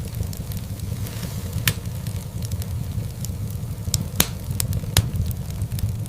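Wood fire burning in a fireplace: a steady low rumble of flames with irregular crackles and sharp pops, the loudest pops about 2, 4 and 5 seconds in.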